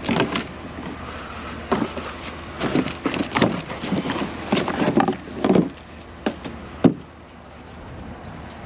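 Scrap being handled: an irregular run of knocks and clanks, the two sharpest near the end.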